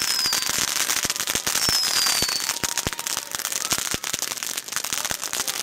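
Fireworks crackling: a dense, irregular stream of sharp pops and cracks, with two short high falling whistles, one at the start and one about two seconds in.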